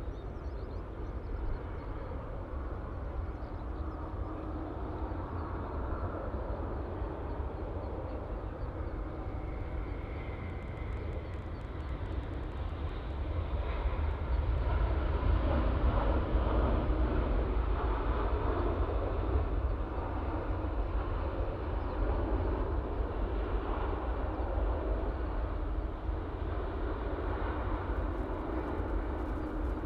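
Jet airliner coming in to land, a steady low rumble of engine noise that swells about halfway through and stays loud.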